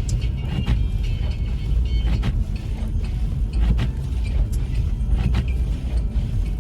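Steady low rumble of a car driving through snow, heard inside the cabin, with a few sharp clicks and knocks scattered through it.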